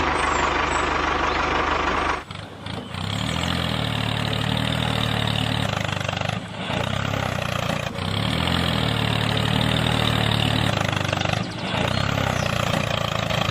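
A tractor engine starting and running, dropping out briefly about every four to five seconds and starting up again each time.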